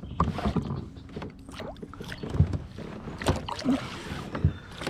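Irregular knocks and clatters of handling aboard an Old Town Sportsman 106 PDL plastic pedal kayak, with a few heavier thumps against the hull.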